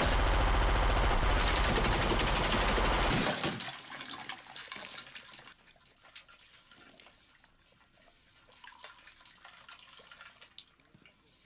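Sustained automatic gunfire riddling the body of a truck, a dense rapid rattle that stops abruptly about three seconds in. After it come faint scattered clicks and small knocks.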